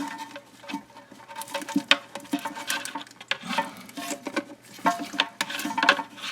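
Irregular clicks, taps and rubbing of small plastic parts being handled: the rubber refill hose being pushed onto the nipple of a toilet fill valve.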